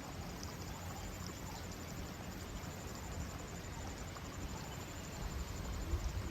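Garden ambience: a steady outdoor hiss and low rumble, with a faint rapid insect pulse high above and a few faint chirps. The rumble grows near the end.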